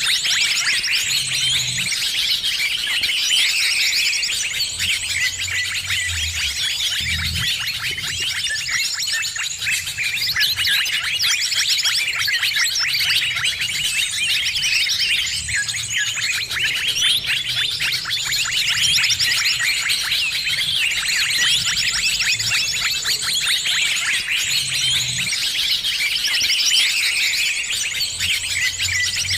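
Dense chorus of many small birds chirping and chattering rapidly and without a break, the busy flock noise used as a lure call to draw in other birds.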